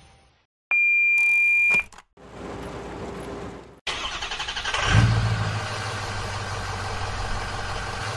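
A loud, single-pitch beep lasting about a second, then a vehicle engine starts about four seconds in, swells briefly and settles into a steady run.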